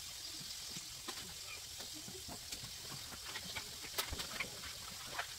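Meatballs frying in a pan on an electric stove: a steady sizzle with scattered pops and clicks, the sharpest about four seconds in.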